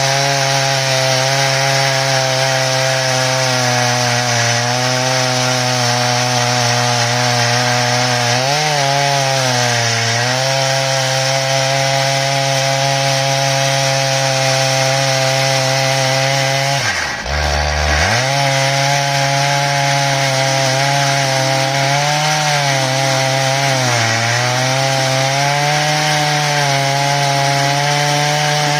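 Stihl MS881 two-stroke chainsaw running hard under load as it rips lengthwise through an ash log on an Alaskan chainsaw mill, the chain hissing through the wood. The engine note sags slightly a few times and drops sharply for a moment a little past halfway before picking straight back up.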